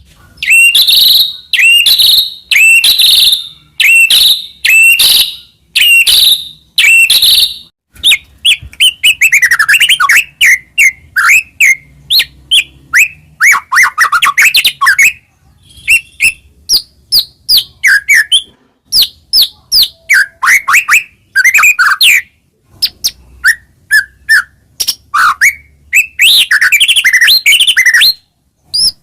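White-rumped shama (murai batu) singing loudly: a run of harsh, repeated notes at about two a second, then from about eight seconds in a fast, varied song full of sliding whistled notes and many different phrases.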